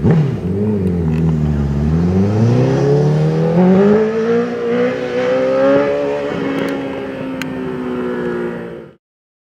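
Superbike engine accelerating: its pitch dips briefly, then climbs steadily for several seconds and levels off, before the sound cuts off suddenly near the end.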